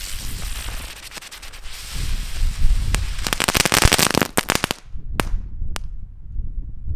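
A small firework going off in a rapid string of sharp firecracker-like cracks, thickest about three to four and a half seconds in, then two last single pops. Wind buffets the microphone with a low rumble throughout.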